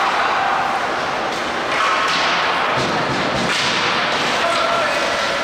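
Ice hockey game sound in an arena: a steady rushing hiss of play on the ice, with voices shouting over it now and then, most clearly near the end.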